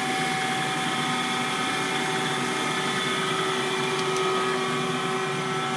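Schaudt cylindrical grinder running under power, its 20-inch grinding wheel, hydraulic table and coolant pump going together: a steady whine of several tones over an even hiss. The sound is smooth and even, which the operator takes as the machine sounding good.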